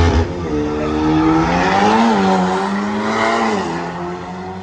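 Race cars accelerating hard down a drag strip. The engine note climbs and drops back twice and fades as the cars pull away.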